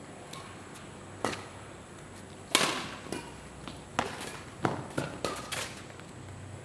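Badminton rally: rackets striking a shuttlecock in sharp cracks, about seven hits at uneven spacing, the loudest about two and a half seconds in and several quick exchanges near the end.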